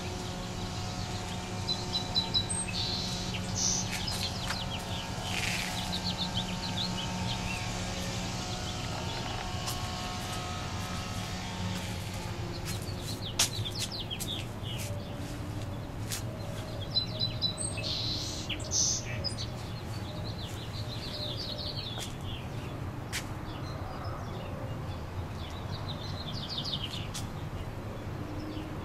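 Small birds chirping and singing in short high bursts every few seconds, over a steady low hum.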